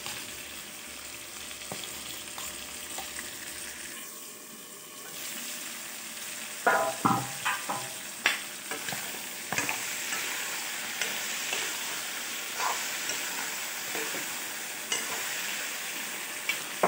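Chicken gizzards and livers sizzling steadily in oil in a metal kadai. From about six and a half seconds in, a spoon stirs the pan, knocking and scraping against the metal now and then.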